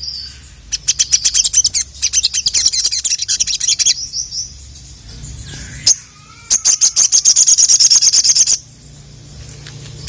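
Sogon (sogok ontong) bird singing: two fast runs of sharp, high repeated notes, several a second, the second run starting about six and a half seconds in and lasting about two seconds, with a few softer gliding notes between them.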